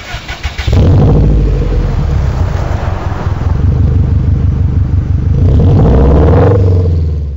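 Honda Africa Twin CRF1000L's parallel-twin engine running loud and steady. It comes up in level about a second in, and its pitch rises briefly near the end.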